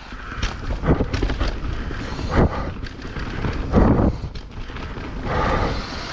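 Mountain bike ridden fast over rough trail, heard through a camera on the bike or rider: a steady low rumble of tyres and rattle, with jolts about a second in, again near two and a half seconds and near four seconds as the bike hits bumps.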